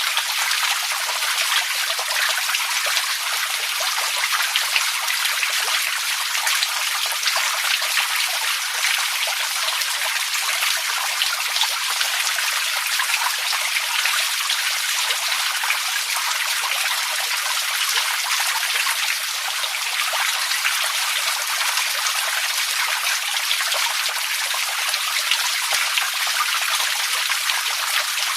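Running water trickling and splashing steadily: an even rushing hiss dotted with many small splashes, with no change or break.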